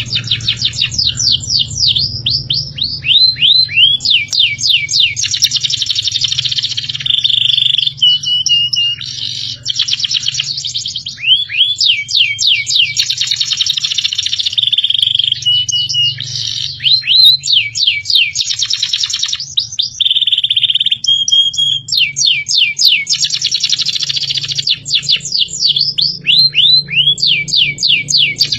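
Recorded songbird song played as a masteran track for training cage birds. Rapid series of downward-sweeping whistled notes alternate with short level trills, and the same song phrase recurs several times. A steady low hum runs underneath.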